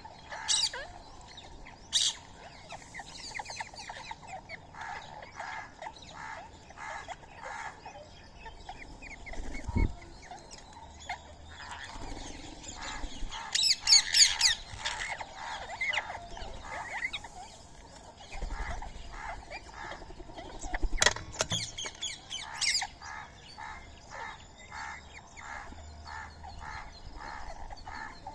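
Birds calling: a steady series of short, evenly repeated chirps, broken by loud, shrill screeching calls about halfway through and twice more about three quarters of the way in.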